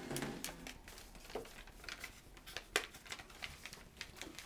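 A sheet of paper rustling and crinkling as it is folded by hand: a run of soft, irregular crackles, with a sharper one near three seconds in.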